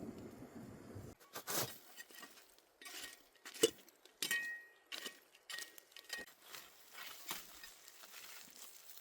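Cookware and utensils clinking and knocking lightly, a scatter of small clicks with one sharper knock about three and a half seconds in and a brief metallic ring after a knock just past four seconds.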